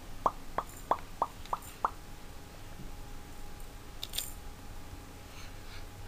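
A quick run of about seven short pops, roughly three a second, each with a brief rising pitch: the popping sound Jasper makes. About four seconds in comes one brief, hissy click.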